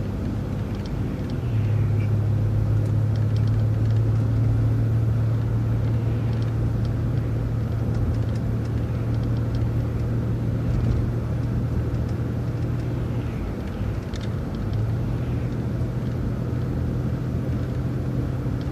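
Steady low engine drone and road noise of a vehicle driving along, heard from inside. The drone comes in about a second and a half in, dips briefly about two-thirds of the way through, then carries on.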